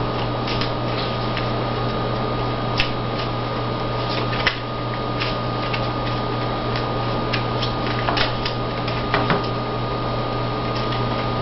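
Playing cards being handled and laid on a table: scattered soft clicks and taps over a steady electrical hum with a constant thin high tone.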